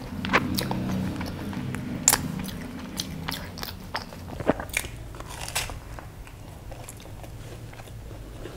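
Close-miked crunching and chewing of a fried samosa: a run of crisp crackly bites, the sharpest about two seconds in, with mouth noises between them.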